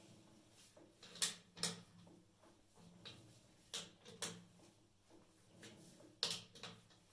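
A faint low hum with about six sharp knocks or clacks, coming in pairs about two and a half seconds apart.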